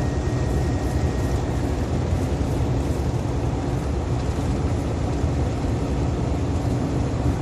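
Heavily loaded semi-truck's diesel engine and road noise heard from inside the cab while it gathers speed on the highway: a steady low drone.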